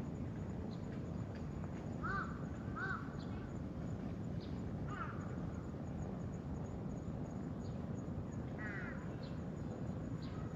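Several short, separate bird calls, a pair about two seconds in and more near five and nine seconds, over steady low outdoor noise.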